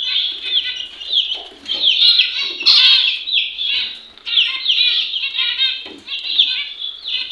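A flock of small caged breeding birds chirping and chattering, many short sliding calls overlapping with no break.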